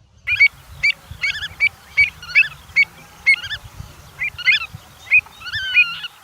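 Avocet calling: a rapid series of short, sharp calls, about two to three a second, with a couple of longer falling notes near the end, over a low background rumble.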